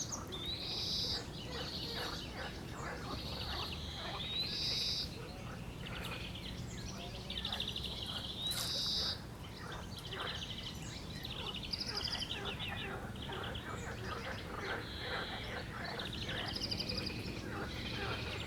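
A songbird singing repeated short trilled phrases broken by quick rising whistles, over a steady chorus of croaking frogs.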